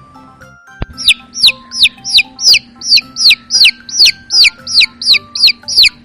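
Chick peeping: a fast, even run of loud, high notes, each sliding downward, about three a second, starting about a second in, over quiet background music.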